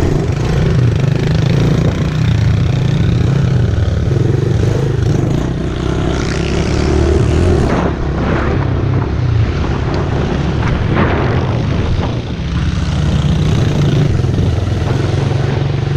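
Pit bike's small single-cylinder engine running steadily under throttle while being ridden, heard close up.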